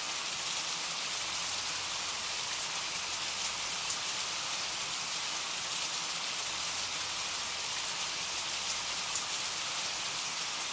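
Rain falling steadily, an even hiss of drops without a break.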